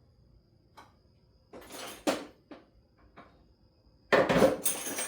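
Metal hand tools clinking and clattering as wrenches are rummaged through in a toolbox: a few scattered clinks, then a louder rattle of metal about four seconds in.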